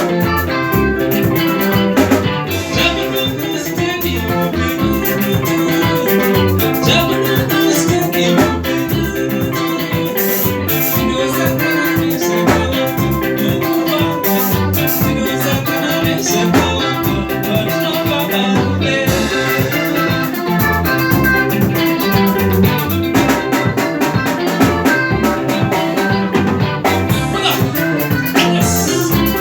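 A band playing an instrumental passage of live music, with a steady beat and busy melodic lines over bass and drums, and no singing.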